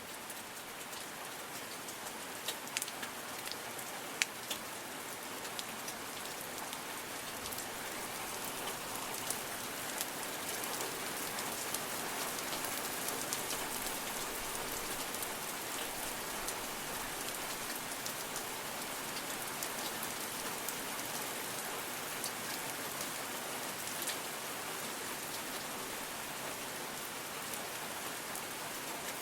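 Steady rain falling on foliage, with a dense hiss and scattered louder individual drops, growing a little heavier after the first several seconds.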